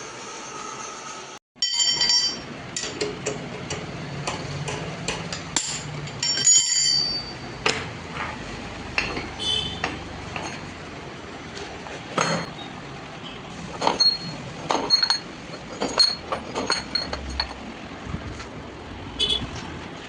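Irregular metallic clinks, some ringing briefly at a high pitch, over steady background noise, typical of metal parts or tools being handled.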